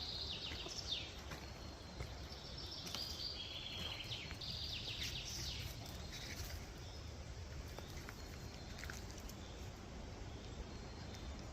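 Songbird singing high, fast trills for the first six seconds or so, then only scattered short notes, over a steady low rumble.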